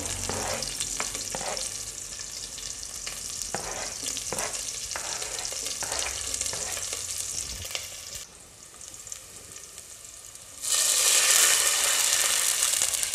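Chopped shallots, garlic and spring onion sizzling in a hot enamel pot as they are scraped in from a plastic cutting board, with the metal ladle tapping a few times. Near the end, water is poured in from a jug and a loud rushing hiss takes over.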